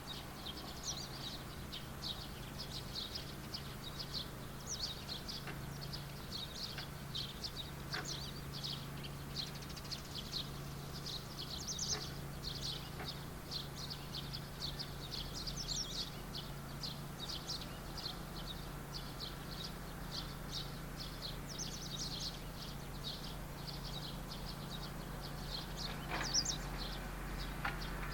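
Many small birds chirping in quick, overlapping short notes, with a steady low hum underneath and an occasional sharp click.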